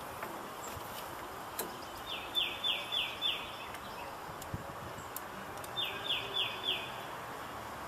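A songbird calling two short phrases of four quick chirps each, about four seconds apart, over a steady hiss of background noise, with a few faint small clicks.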